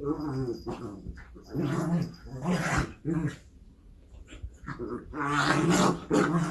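A dog growling in several short bouts, with a longer growl near the end.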